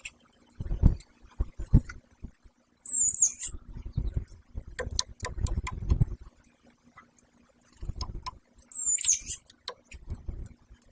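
Pileated woodpeckers moving and pecking close to the microphone: irregular bouts of bumping, scratching and sharp taps. Two short, high squeaky calls come about 3 seconds and about 9 seconds in.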